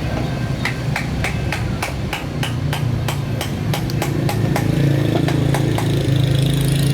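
Quick, even taps, about four a second, fading out a little past the middle, over a steady low hum.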